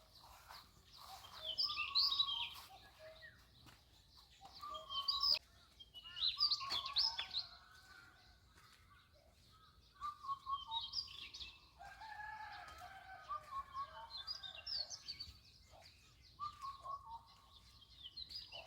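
Birds singing and chirping in short bursts every second or two, with quick high chirps over lower, drawn-out notes.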